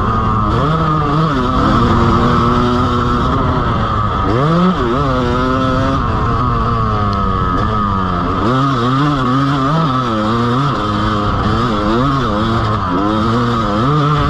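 Dirt bike engine on a motocross lap, its pitch rising and falling over and over with throttle and gear changes, with a sharp climb about four seconds in.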